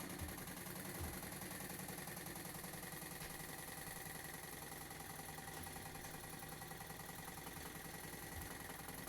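Faint steady hum with background hiss; a soft knock about a second in.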